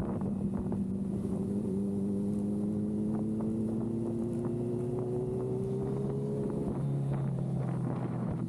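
Motorcycle engine running on the road, its pitch rising slowly, then dropping abruptly about two-thirds of the way through and holding steady at the lower pitch. Wind buffets the microphone throughout.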